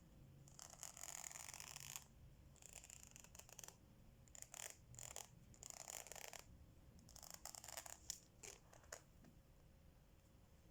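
Diamond-painting supplies being handled: a series of faint, short, scratchy rustles, the first and longest lasting over a second, then shorter ones about once a second.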